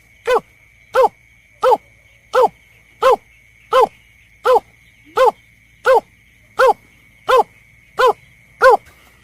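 Lure recording of a snipe (berkik) calling: a short, harsh 'kek' note repeated evenly about every 0.7 seconds, thirteen times. A faint steady high tone runs underneath.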